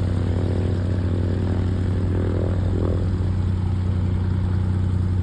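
A piston engine idling: a low, even drone that holds steady throughout.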